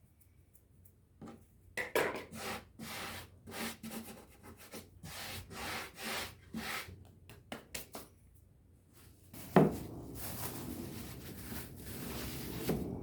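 Wooden rolling pin rolling out thin börek dough on a wooden board: a series of irregular rubbing strokes, then a knock followed by steadier rubbing near the end.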